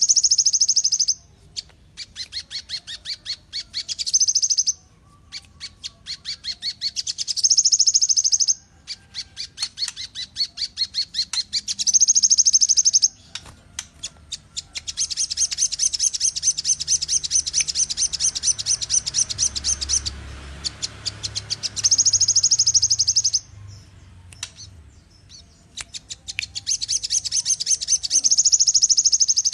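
A songbird called a moli by Indonesian bird keepers sings. It repeats phrases of rapid high chattering notes, each ending in a loud, steady high trill of about a second, with short pauses between phrases.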